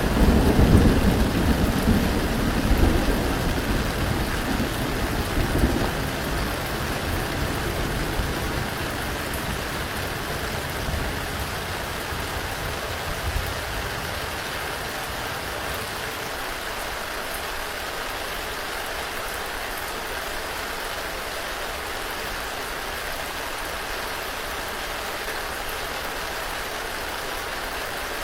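Steady rain falling, with a roll of thunder rumbling low at the start and fading away over the first several seconds.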